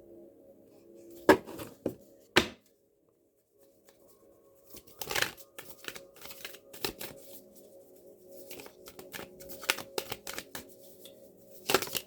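Tarot cards being handled: a few sharp snaps early on, then after a short pause a run of irregular flicks and slaps as cards are shuffled and laid down, over faint background music.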